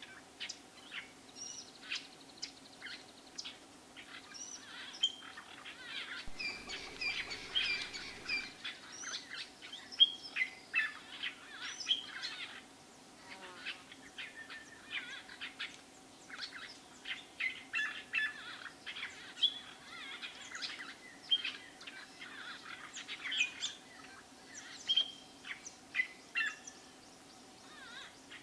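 Wild birds chirping and calling, many short calls in quick succession, over a faint steady hum.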